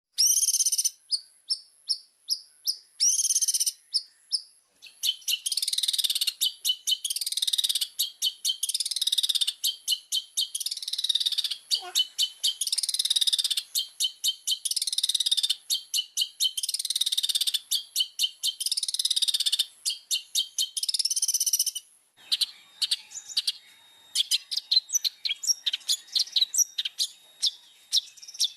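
Long-tailed shrike (cendet) singing vigorously in full song. It starts with spaced, high, clipped notes, then breaks into long runs of rapid scratchy chattering. A brief pause comes about three-quarters of the way in, followed by quicker broken notes.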